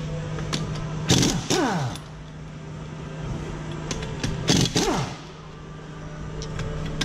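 Air impact wrench (rattle gun) running in reverse on tight wheel nuts: two short bursts of rapid hammering, about a second in and again past halfway, each winding down in a falling whine as the trigger is let go. A steady low hum runs underneath.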